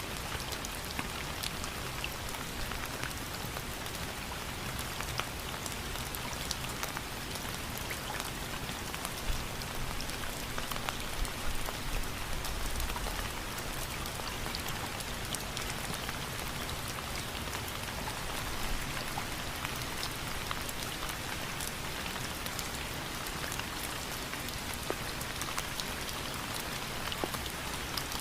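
Steady rain falling on a surface, an even hiss dotted with individual drop ticks, swelling slightly about ten seconds in.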